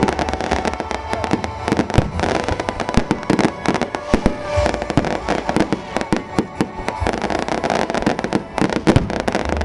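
Fireworks and firecrackers going off in a rapid, unbroken string of sharp bangs and crackles.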